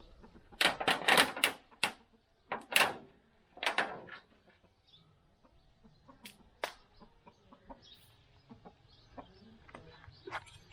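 A chicken clucking: a quick run of loud calls about half a second in, two more around three and four seconds, then only a few light clicks.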